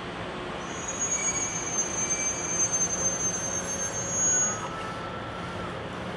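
E001-series TRAIN SUITE Shiki-shima train pulling into the platform and slowing to a stop, with a thin high squeal as it brakes from about half a second in to near five seconds. A short louder burst comes about four seconds in.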